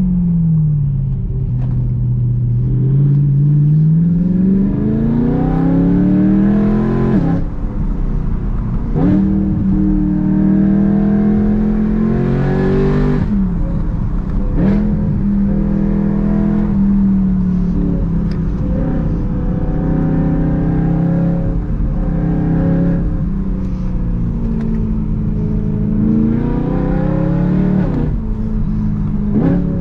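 BMW E92 M3's 4.0-litre V8 with a loud exhaust under hard driving: the revs climb and fall again and again, with several sudden breaks in pitch as the dual-clutch gearbox changes gear.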